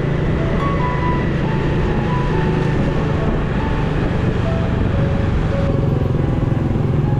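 Motorcycle running steadily on the road, a continuous low rumble, with a simple melody of background music playing over it.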